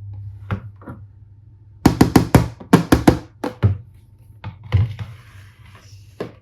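Sharp knocks and clicks of hard plastic toy parts being handled: a quick run of about ten knocks about two seconds in, then a few single ones.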